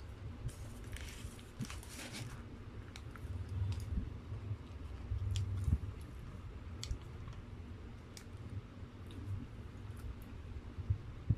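Close-miked chewing and mouth sounds, with scattered sharp clicks.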